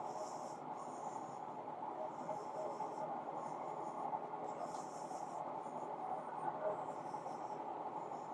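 Sweco-style vibratory screener running steadily with titanium powder on its 325 mesh screen, ultrasonics off, with a hiss in the upper range that comes and goes every second or so.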